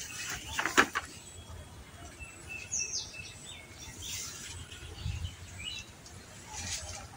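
Small birds chirping, with a short falling whistle about three seconds in, over leaves and branches rustling as a lemon tree is handled. A single sharp snap or click comes about a second in.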